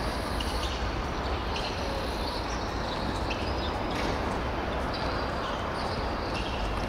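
Steady outdoor noise with a heavy low rumble, typical of wind on the microphone, with faint short sounds from play on the pitch coming through now and then.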